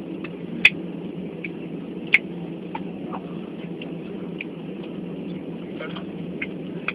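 Airliner cabin noise after landing: a steady low hum with scattered sharp clicks and knocks, two of them loud, just under a second in and just after two seconds.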